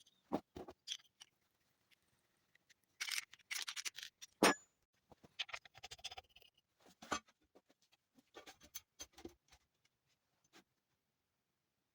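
Small metal parts handled by hand: scattered light clicks and short scrapes as an adjusting screw and locknut are fitted, with one sharper knock about four and a half seconds in.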